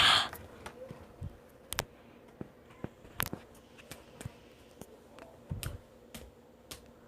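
A short breathy vocal sound at the start, then scattered sharp single clicks of a computer mouse and keyboard, spaced irregularly, against quiet room tone.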